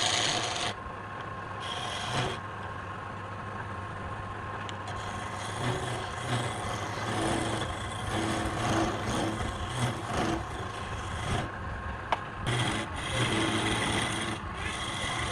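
Wood lathe running with a steady motor hum while a tool scrapes against the spinning wood in repeated passes, the rasping swelling and easing about once a second. The tool lifts off briefly with a sharp tick about twelve seconds in.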